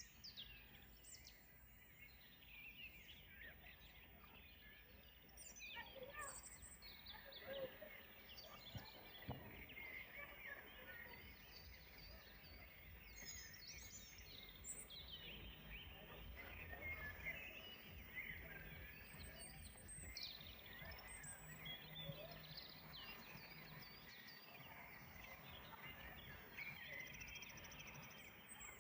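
Faint evening birdsong: several small birds chirping and trilling in overlapping short phrases, with a low hum underneath.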